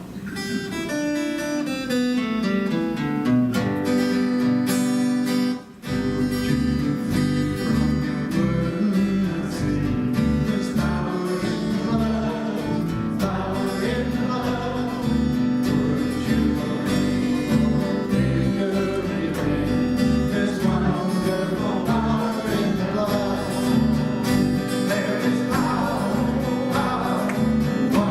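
Worship band music led by acoustic guitar. After a sparse opening there is a brief break, and then the full band comes in with a steady beat about six seconds in, with singing over it.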